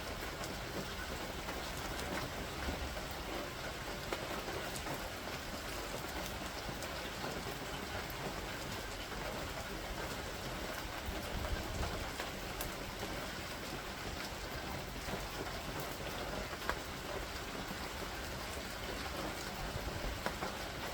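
Steady rain falling on surfaces, with scattered drops ticking and a faint low rumble about halfway through.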